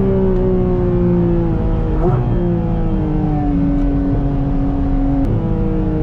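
A car engine running steadily, its pitch slowly falling, with two short upward jumps about two seconds and five seconds in.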